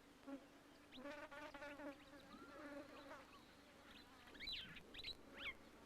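Faint wild ambience: a steady insect buzz, with a few short bird-like chirps near the end.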